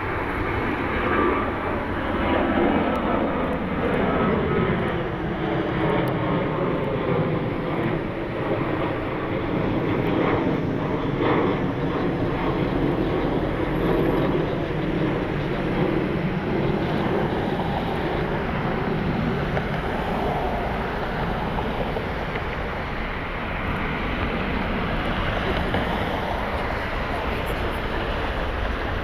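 Southwest Airlines Boeing 737 taking off, its twin jet engines at takeoff thrust: a loud, steady jet noise with slowly gliding tones that fall and rise as the aircraft passes and climbs away.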